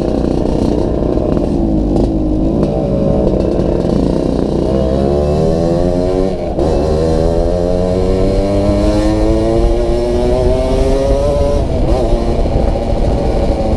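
Yamaha RX-King's 135 cc two-stroke single-cylinder engine and exhaust under way, its pitch dipping at gear changes and then climbing steadily for several seconds as it accelerates before dropping again near the end.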